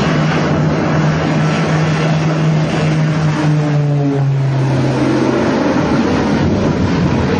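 An engine running steadily over a rushing noise, its low hum dropping a step in pitch about four seconds in.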